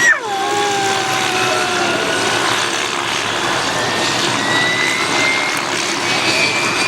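Display aircraft in flight: a steady loud engine roar with a whine that falls in pitch just after an abrupt break at the start, then slowly rises.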